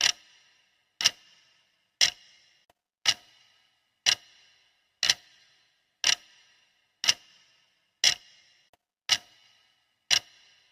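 Clock-style ticking sound effect: sharp, evenly spaced ticks about once a second, each with a brief ringing tail.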